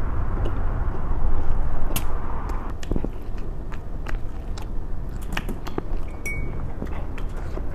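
A person chewing food close to the microphone, with scattered short sharp clicks.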